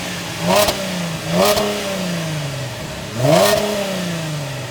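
Chevrolet Camaro's 3.6-litre V6 with a Flowmaster Super 40 muffler, revved in three quick throttle blips from idle. Each blip rises sharply in pitch, then dies back slowly over about a second.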